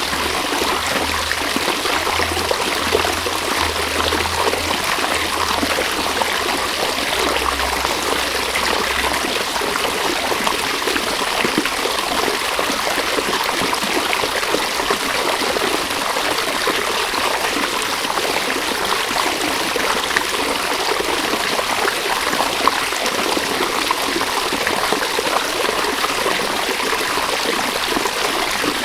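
A river or stream running steadily, an even rushing and trickling of water over stones with no letting up.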